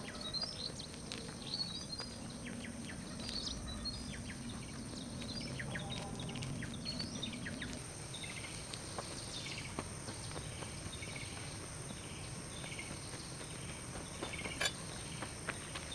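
Outdoor ambience: insects keep up a steady high-pitched drone. Small bird chirps come through in the first half, with scattered light clicks.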